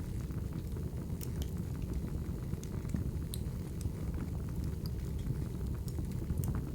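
Crackling wood fire: a steady low rumble of the flames with scattered sharp pops and snaps from the burning logs.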